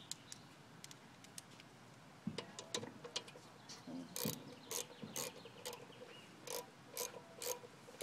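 Socket ratchet wrench clicking as it is worked back and forth to loosen a bolt: a few scattered clicks at first, then from about halfway a steady run of ratchet strokes, about two a second.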